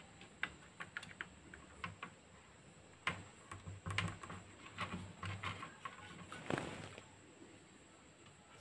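Faint, scattered light clicks and taps of hand work at a circuit board as a replacement audio IC is fitted and soldered in, with a sharper click about six and a half seconds in.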